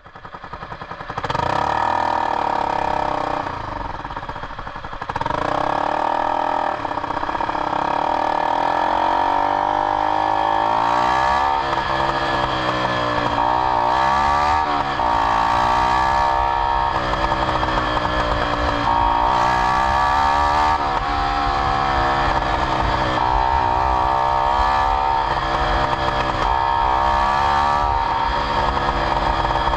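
Yamaha YZF-R125's single-cylinder four-stroke engine starting about a second in, revved repeatedly up and down through its exhaust, with sharp pops from the exhaust (popcorn) among the revs.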